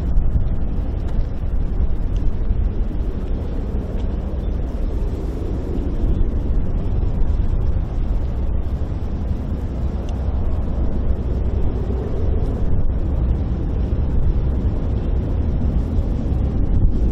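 Steady, deep rumble of a Boeing 767's jet engines, swelling slightly a few times without stopping.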